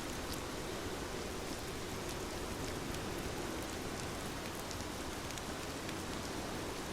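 Heavy rain falling steadily, with scattered sharp ticks of single drops.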